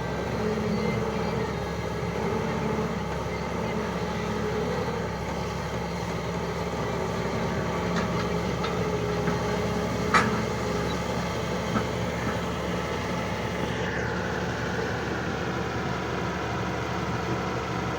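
Diesel engine of heavy farm and construction machinery running steadily, with a few sharp knocks, the loudest about ten seconds in. From about fourteen seconds a higher, steady whine joins the engine.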